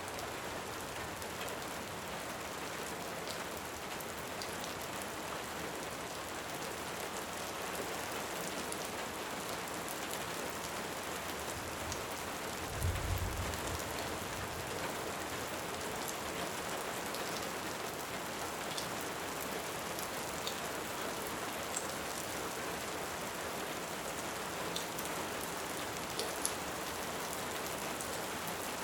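Steady rain hiss with scattered sharp crackles from a log fire, and a brief low rumble of distant thunder a little under halfway through.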